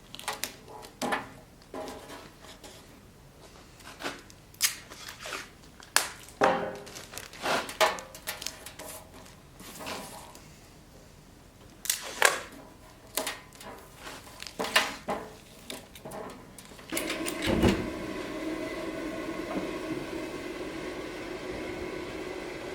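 Irregular metallic knocks and clanks in a workshop. About seventeen seconds in, a steady machine drone starts up and keeps running, the kind of sound a forge blower or motor makes.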